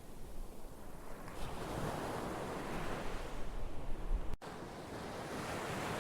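Ocean surf washing ashore in slow swells of rushing noise. There is a momentary gap about four seconds in, after which the deep rumble drops away and another wave builds.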